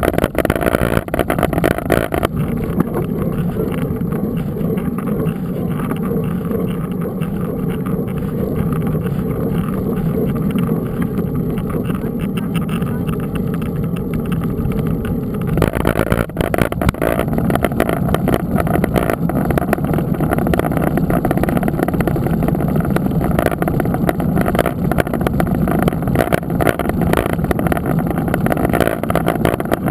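Wind buffeting the microphone, with rattling and knocking, as from a mountain bike ridden over a rough trail. The noise thins out about two seconds in and gets heavier again at about sixteen seconds.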